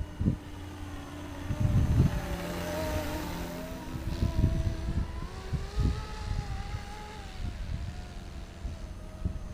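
A 470-size radio-controlled scale Cobra helicopter in flight, its motor and rotor whine rising and falling in pitch as it manoeuvres. Gusts of wind buffet the microphone.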